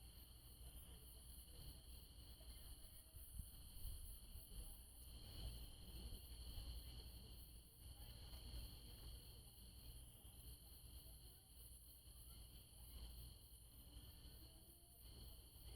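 Faint chorus of night insects, steady high trills that carry on throughout, over a low rumble.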